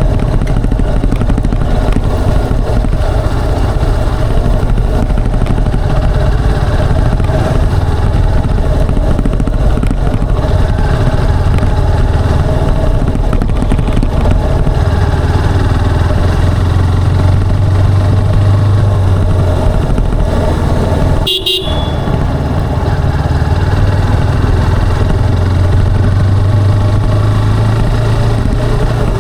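Motorcycle engine running steadily on the move, with wind and road noise over it. There is a brief dip in the sound about three-quarters of the way through.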